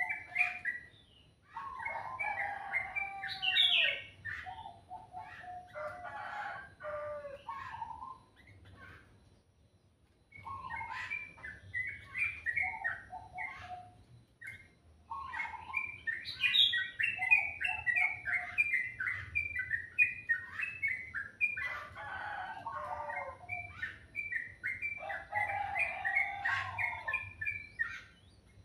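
A songbird singing in phrases of quick, varied notes a few seconds long, separated by short pauses.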